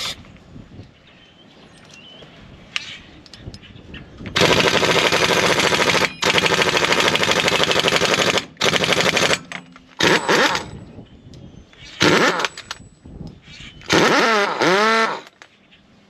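Impact wrench run in about six bursts of rapid hammering, the first two about two seconds each and the rest shorter; in the last burst the pitch dips and rises again.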